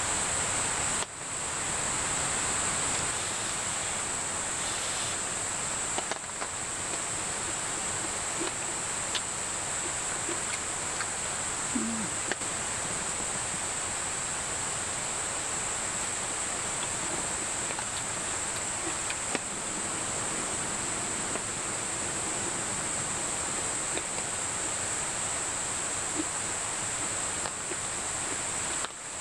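Forest ambience: a steady high-pitched insect trill, unbroken throughout, over a constant hiss, with a few faint ticks and clicks.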